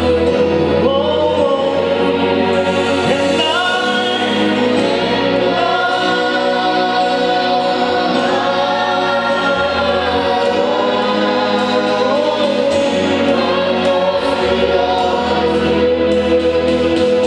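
Choir singing a gospel worship song in long held notes, over a low bass accompaniment whose notes change every couple of seconds.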